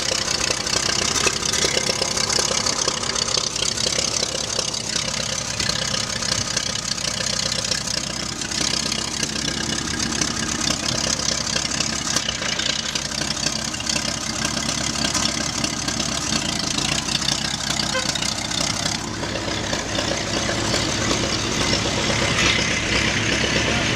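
Tractor engine running steadily at a constant speed, with no change in pitch.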